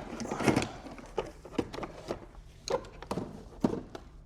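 Irregular light clicks and knocks, with a short rustle near the start, from a wiring harness and its plastic clips being handled and moved about in a car.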